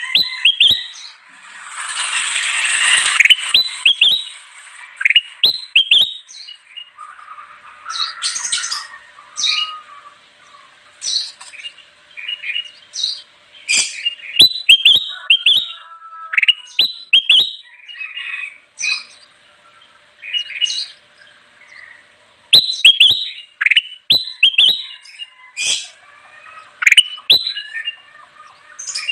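Kutilang emas bulbul singing busily: quick, bright chirps and short whistled phrases in repeated runs with brief gaps, and a harsher noisy call about two seconds in.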